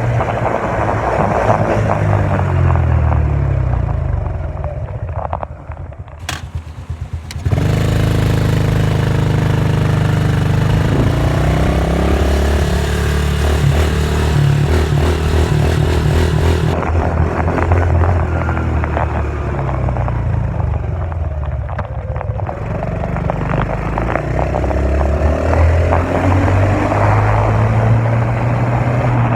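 Dirt bike engine running and revving, its pitch rising and falling. About six seconds in it drops to a quiet, low idle for a second or two, then opens up again.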